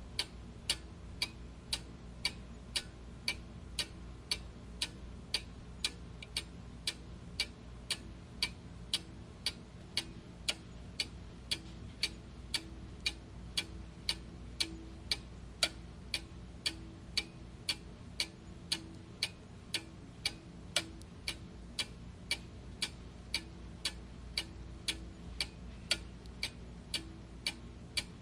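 Clock ticking steadily and evenly, about two ticks a second, over a faint low hum.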